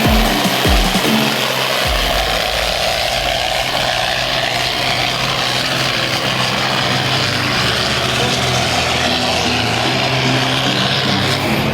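Pulling tractor's diesel engine blipped a few times, the pitch dropping after each rev, then running hard and steady under full load with a loud, rough exhaust.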